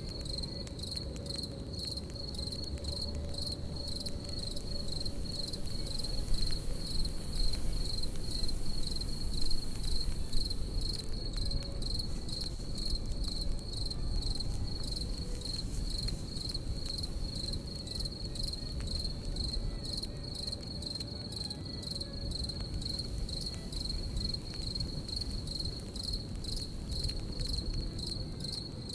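Crickets chirping in a steady, rapid pulse. Under them runs the low rumble of a campfire with scattered crackles, a little louder about six to eleven seconds in.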